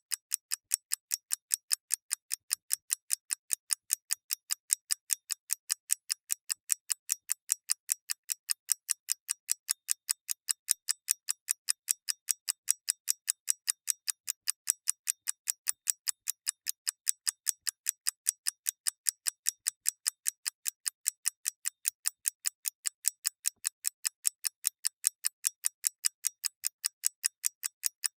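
Mechanical clock ticking steadily: crisp, light, evenly spaced ticks, several a second, with no change in pace.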